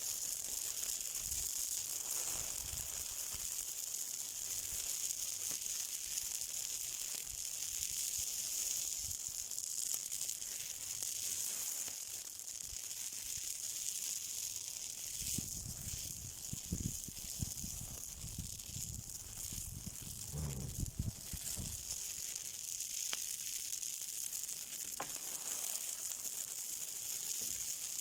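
Something burning, giving a steady high hiss with scattered small crackles. Midway through come several seconds of low rumbling bumps.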